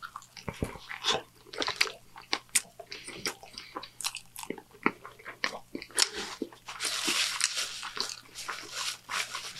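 Close-miked biting and wet chewing of a Burger King Whopper with a purple bun, full of irregular small crunches and clicks. From about seven seconds in, the chewing is joined by a denser crinkling, as of paper being handled.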